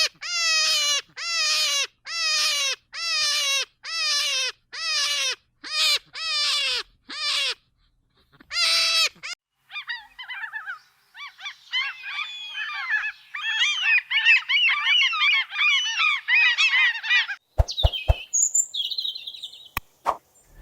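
Flamingos honking: a single bird calls about ten times in a row, each call falling in pitch, then a flock chatters with many overlapping honks. A few sharp clicks and short high calls come near the end.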